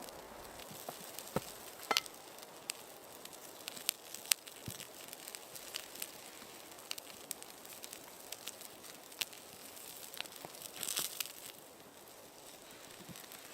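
Irregular small clicks and crackles over a faint steady hiss, with a brief rustling burst about eleven seconds in.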